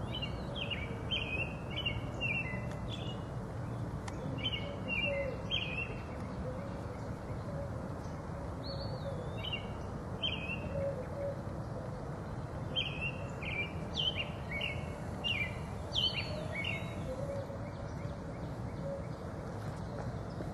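A songbird singing, short phrases of three to five quick clear notes with pauses of a second or two between phrases, over a steady low background rumble.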